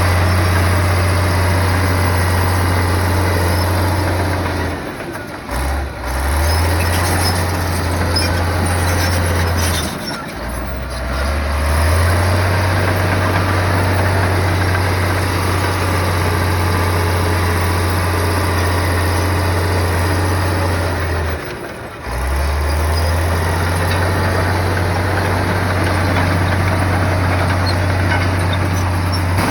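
Bulldozer engine running with a steady low drone. It dips and shifts pitch briefly three times, about 5, 10 and 22 seconds in.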